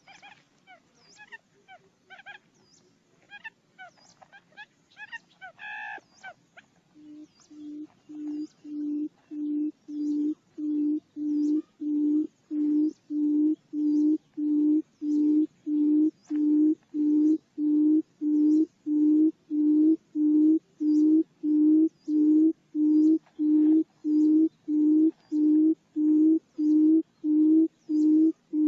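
Buttonquail calling: after a few seconds of faint chirps, a long series of low hoots starts, about two a second, growing louder and then holding steady.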